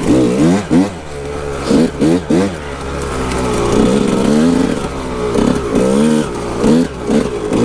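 Kawasaki KX 125 two-stroke dirt bike engine being ridden, its revs rising and falling again and again as the throttle is opened and closed.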